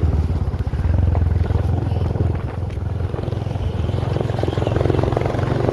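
A vehicle's engine running steadily on the move, a low, even drone with no breaks.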